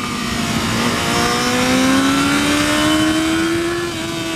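Motorcycle engine pulling under throttle, its pitch climbing slowly for a few seconds and then easing off slightly near the end, over a steady rush of riding wind.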